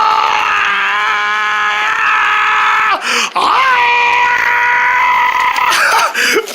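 A man's voice letting out a long, high battle cry, held at one pitch for about three seconds, then after a brief break a second long cry held a little higher.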